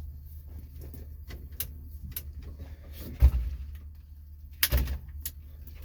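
Scattered clicks and knocks inside a dump truck's cab, with two louder thuds about three seconds and four and a half seconds in, over a steady low rumble, as the gear shifter and cab fittings are handled.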